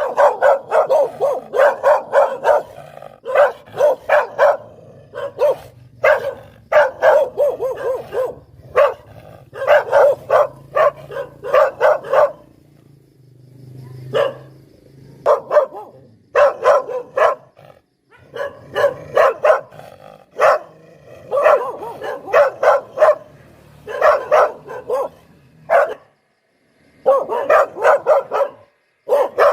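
A poodle barking in runs of quick, sharp barks, several a second, with short pauses between the runs.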